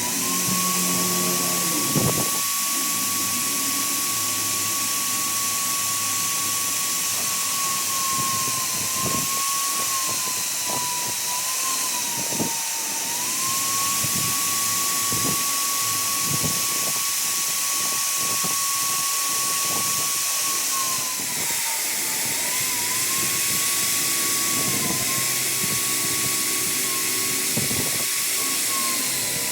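High-speed power tool motor running steadily with a high whine, its pitch dipping briefly several times as the tool is pressed into the metal work, over a constant hiss.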